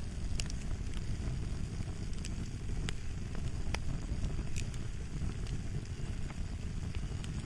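Crackling fire: a steady low rumble with sharp pops scattered irregularly through it.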